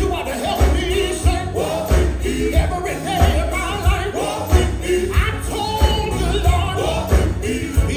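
Live gospel music: singers with a band over a steady, driving beat, with bright jingling percussion throughout.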